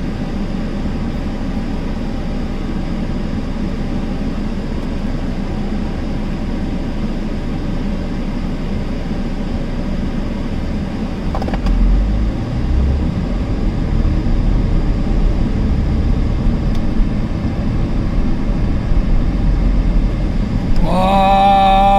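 Steady road and engine noise inside the cabin of a 2-litre diesel Skoda at motorway speed, with the air conditioning fan blowing on its maximum setting. About halfway through, a deeper low rumble comes in and the noise grows slightly louder.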